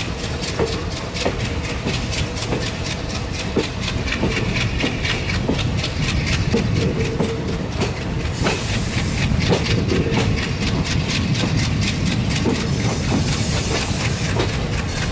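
Express passenger train running along the line, its wheels clattering over rail joints and points over a steady rushing noise.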